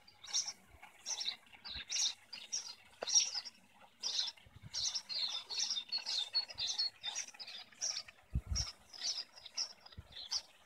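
Small birds chirping busily: short, high chirps several times a second with only brief gaps.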